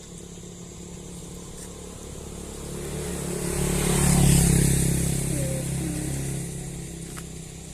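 A motor vehicle passing by: its engine grows louder, is loudest about four seconds in, then fades away.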